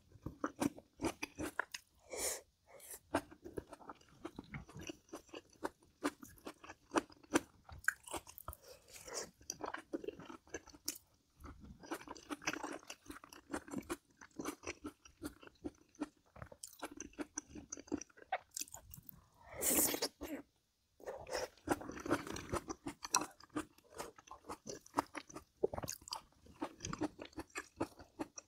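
Close-miked mukbang eating: a person chewing and biting home-cooked food, with irregular crunches and wet mouth clicks. A longer, louder sound comes a little past two-thirds of the way in, followed by a brief drop to silence.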